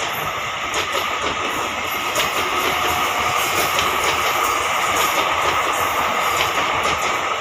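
Train of railway parcel vans rolling past at speed: a steady rushing rumble of wheels on rail, broken by irregular sharp clicks of the wheels over rail joints.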